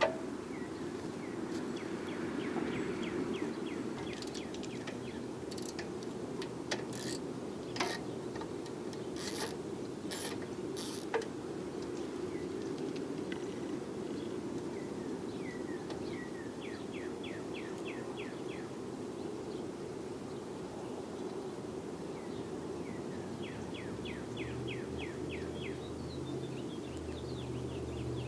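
Tools and metal parts clinking and tapping now and then, as a cover is unbolted from a tractor's ignition, over a steady low hum. Three short runs of rapid high ticks come about two seconds in, in the middle and near the end.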